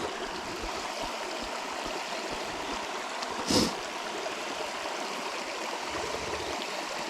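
River water flowing steadily, an even rushing, with one brief noisy sound about three and a half seconds in.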